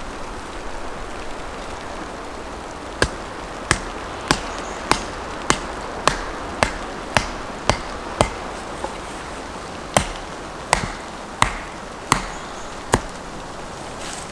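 About fifteen sharp strikes of a tool on wood, roughly one and a half a second, in two runs with a short pause in the middle.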